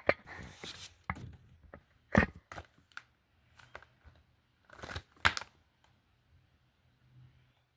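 Plastic film cases being handled: a series of sharp clicks and knocks, the loudest around two and five seconds in, with crinkling of plastic in the first second.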